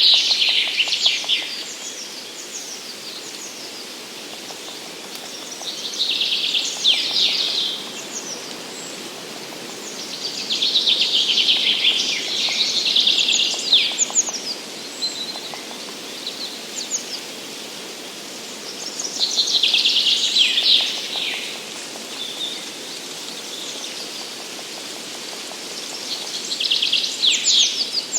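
A songbird singing short, rapid, trilled phrases of a couple of seconds each, repeated about every six to eight seconds, over a steady background hiss of the forest.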